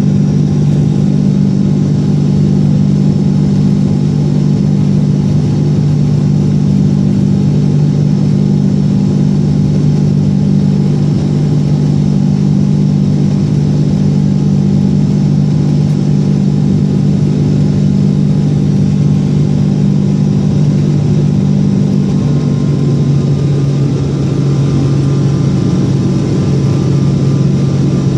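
Boeing 777 jet engines and airflow during takeoff, a loud steady low drone with a rushing hiss. About 22 seconds in, the hum drops a little in pitch.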